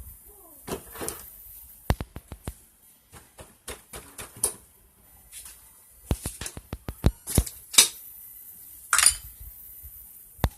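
Hand tools and metal engine parts clinking and knocking irregularly during teardown of a Yamaha F1ZR two-stroke engine, with a brief scrape about nine seconds in.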